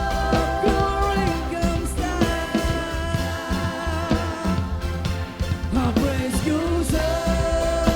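Full-band contemporary worship music playing with a steady drum-and-bass beat, sustained chords and vocal lines.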